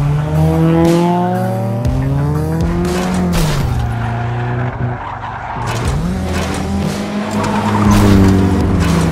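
Dubbed race car engine sound effect revving, its pitch climbing and then falling away twice.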